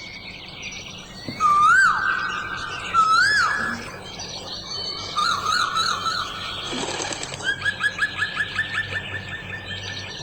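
Birds calling: two loud whistled notes that rise and fall, a warbling phrase, then from about seven seconds in a quick run of repeated notes, about four a second.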